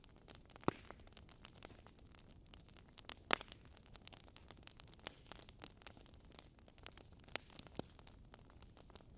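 Wood fire crackling in a fireplace: a low hiss with irregular small snaps and pops, two louder pops near the start and about three seconds in.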